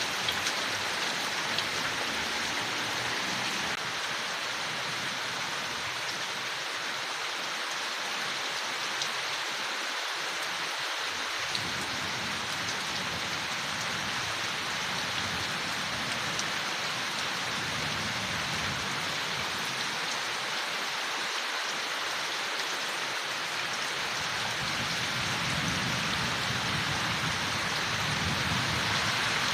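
Steady rain falling on leaves, an even hiss with faint scattered drop ticks, swelling slightly in the low end near the end.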